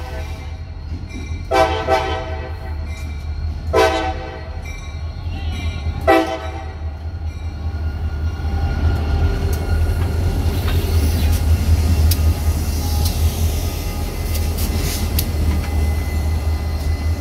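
CSX diesel locomotives' multi-tone horn sounding two long blasts and a short one in the first seven seconds. Then the locomotives pass close by with a steady low diesel rumble and an occasional sharp click from the wheels.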